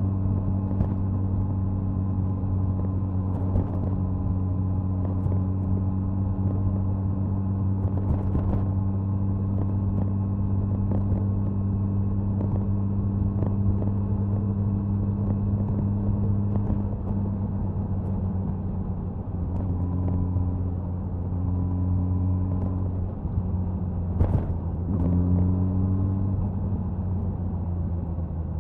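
Suzuki Hayabusa's inline-four exhaust running at a steady cruise, with wind noise. After about 17 seconds the engine note eases, and near the end it rises briefly as the throttle opens again.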